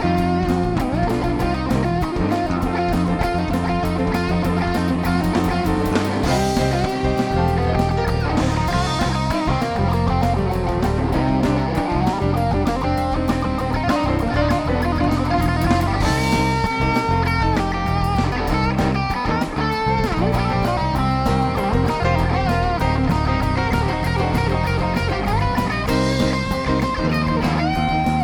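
Live rock band playing an instrumental passage: electric guitar over bass guitar and drums, with no vocals.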